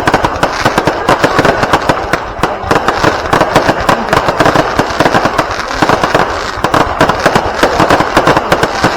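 Fireworks going off in a dense, unbroken barrage: rapid cracks and bangs, many a second, over a steady crackle.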